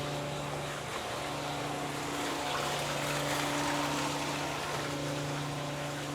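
A steady low machine hum with a constant rushing hiss over it. The hum dips briefly about a second in.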